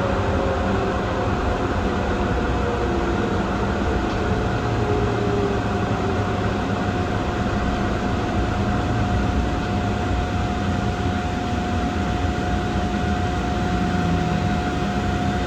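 Airport people-mover tram in motion, heard from inside the car: a steady running rumble with a steady high whine from the drive.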